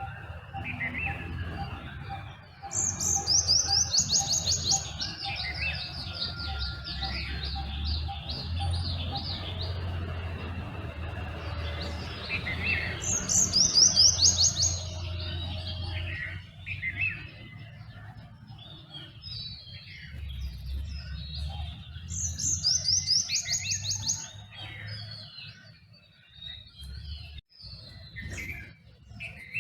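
Dawn chorus of several birds chirping and calling. One bird repeats a loud, rapid, high trill of quick notes, each lasting a couple of seconds, three times about ten seconds apart. A low steady rumble runs underneath.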